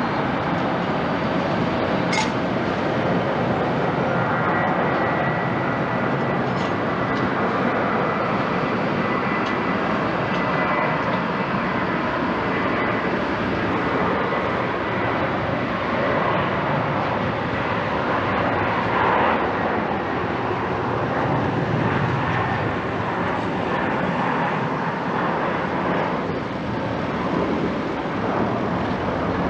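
Jet engines of an Airbus A320-family airliner, a loud, steady rush of noise, with a faint high whine in the first several seconds that fades away.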